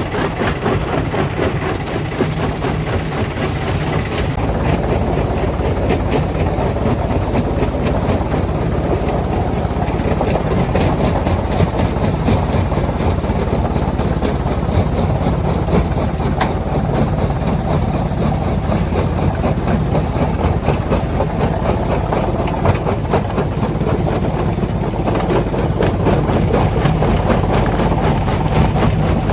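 Heavy machinery running at a stone crusher plant: a steady low engine drone under a constant clatter of small knocks and rattles of rock. The sound changes abruptly about four seconds in.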